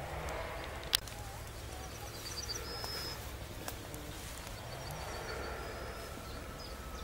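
Small birds singing: two short, quick series of high chirps, over a steady low rumble of wind on the microphone. A single sharp click about a second in.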